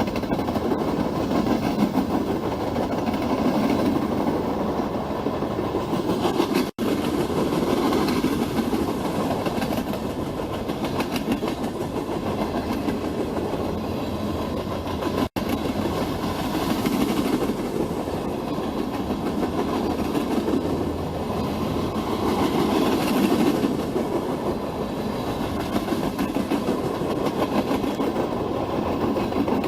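Freight train rolling past, its cars making a steady rumble on the rails. The sound drops out for an instant twice, about seven and fifteen seconds in.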